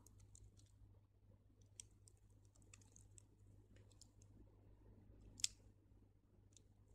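Faint, sparse clicks of crystal beads knocking against each other as the thread is passed through two beads, with one sharper click about five and a half seconds in.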